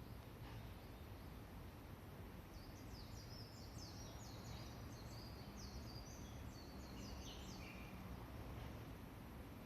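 A songbird sings one quick, twittering phrase of high, jumping notes, starting about two and a half seconds in and lasting some five seconds. Faint, over a steady low rumble of outdoor background noise.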